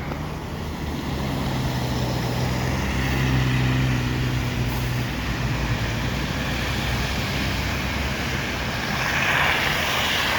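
Large diesel vehicle engine, most likely a city bus, running with a steady low hum amid street traffic; a broad hiss swells up near the end.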